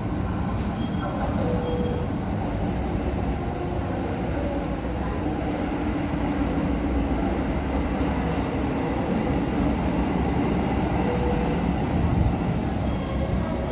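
JR Senseki Line electric commuter train running into the station platform: a steady rumble of wheels and running gear on the rails.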